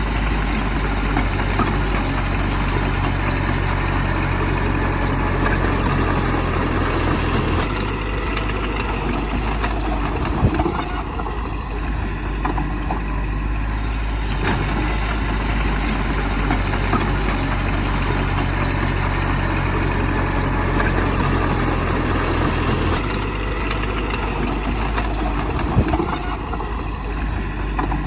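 Heavy earthmoving machinery's engine running steadily, its note shifting twice as the load changes, with a sharp knock about ten seconds in and another near the end.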